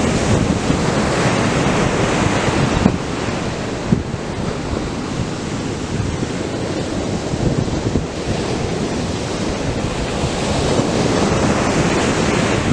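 Atlantic ocean surf breaking on a sandy beach: a continuous wash of waves, swelling louder near the start and again near the end.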